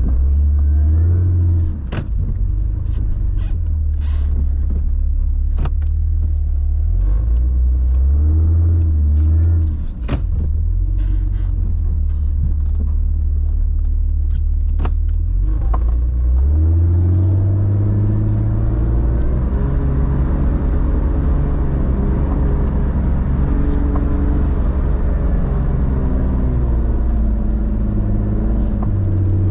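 Four-wheel-drive vehicle engine working through deep snow, its revs rising and falling with several sharp knocks and clunks in the first half. About halfway through the revs climb and stay up, joined by a steady rushing hiss.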